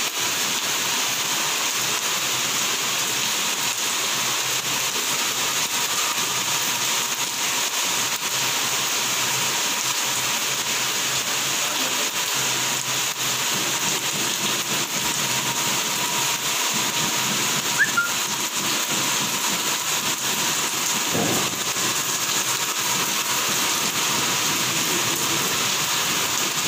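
Heavy rain pouring steadily, an even, unbroken hiss. A short sharp click stands out about two-thirds of the way in.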